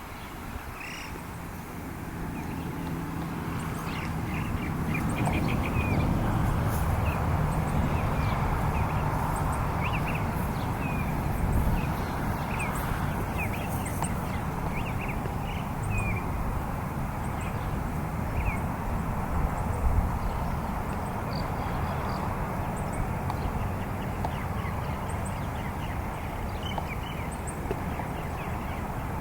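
Wetland birds giving many short, high calls and clucks in scattered runs, over a steady low rumble.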